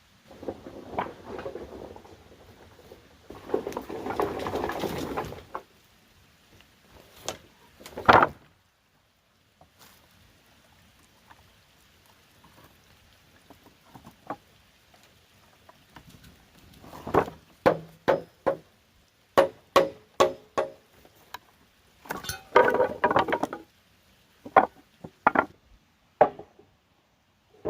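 Wood and bamboo being handled and worked by hand: rough scraping or rustling passages a second or two long, and a series of sharp knocks and taps, several in quick succession in the second half.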